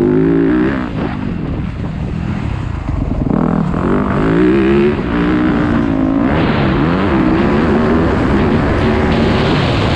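Dirt bike engine revving up and down as it is ridden, its pitch rising and dropping again and again, over rough wind and ground noise.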